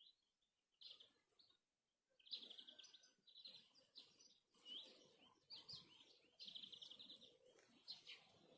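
Faint songbird singing: short chirps and quick trills in a run of phrases, starting about two seconds in and going on with brief gaps.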